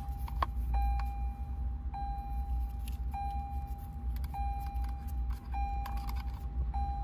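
Lexus RX's dashboard warning chime ringing over and over, one steady tone about every 1.2 seconds, six times. Faint clicks and rattles of wiring being handled and a low steady hum lie underneath.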